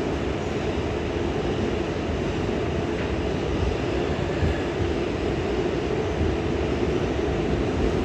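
R142A subway train running steadily between stations: continuous wheel-on-rail and running-gear noise at an even level, with no braking or stops.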